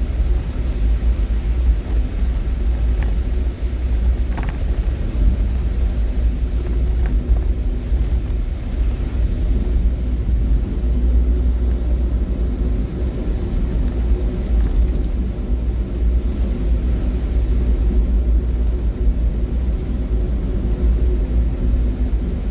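Steady low rumble of a vehicle on the move, with a faint, even engine hum.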